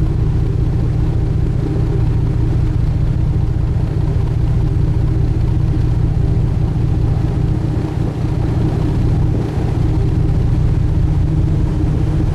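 Sightseeing boat's engine running steadily underway: a loud, even low rumble with a steady hum over it.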